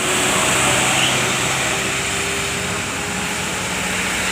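Passing road traffic: motor vehicle engines humming under steady tyre and road noise, rising slightly near the start and then holding level.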